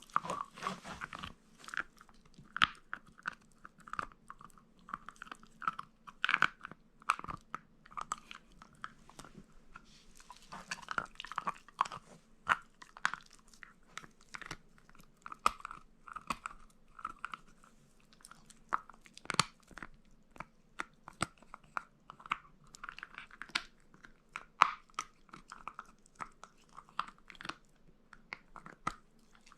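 Shiba Inu gnawing on meat: irregular hard crunches and chewing clicks as it bites and grinds.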